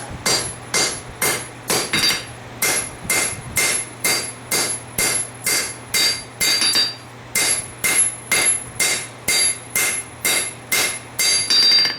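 Hand hammer striking hot steel on an anvil in a steady rhythm of about two to three blows a second, each blow with a bright metallic ring. This is the tang of a farrier-rasp knife being drawn out to lengthen the handle.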